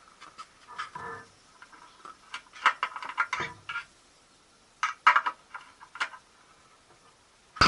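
Scattered clicks and light knocks of small hard objects being handled, some in quick clusters, over a quiet background.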